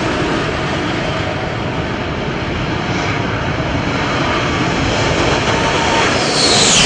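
Super Shockwave jet truck's jet engines roaring loudly and steadily, with a high whine that falls sharply in pitch near the end.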